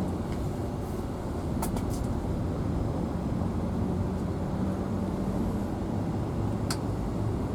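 A car driving at steady speed: an even engine hum and road rumble, with a few light clicks.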